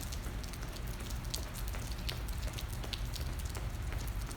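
Rain falling: a steady patter with many scattered sharper drop hits.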